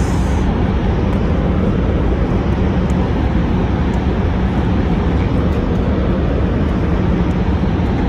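Steady running noise inside a moving train's passenger cabin: a low, even rumble with a constant hum.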